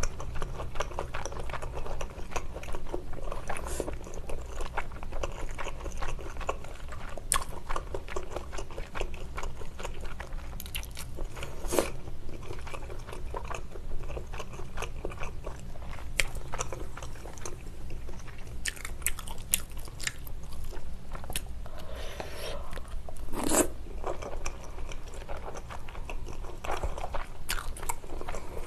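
Close-miked chewing and biting of spicy tteokbokki rice cakes and fish cakes, with occasional sharp clicks of wooden chopsticks against the plastic bowl.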